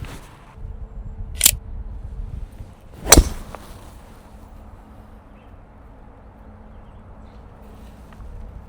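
A golf club striking a ball, a single sharp crack about three seconds in, preceded by a fainter sharp click about a second and a half in.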